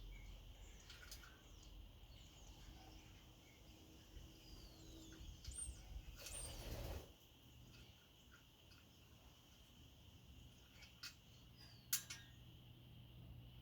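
Near silence with faint bird chirps, a brief soft rush of noise about halfway through, and a couple of sharp clicks near the end.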